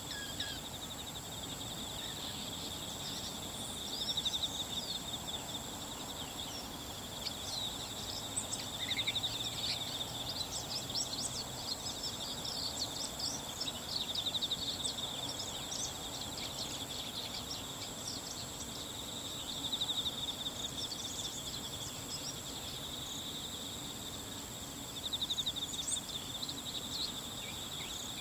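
Insects trilling steadily, a high pulsing chorus that swells and fades about every five seconds. Through the middle, a run of short, quick high bird calls sounds over it.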